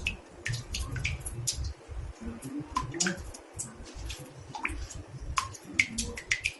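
Water dripping into a bathtub: irregular sharp drops, a few a second, some with a short ringing tone, over a low rumble.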